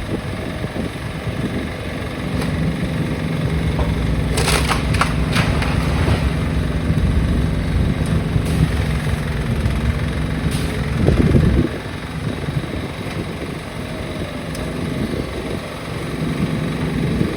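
Heavy demolition machinery's diesel engine running steadily, with a cluster of sharp clattering knocks about four to six seconds in and a louder burst of noise around eleven seconds, after which the engine note drops away.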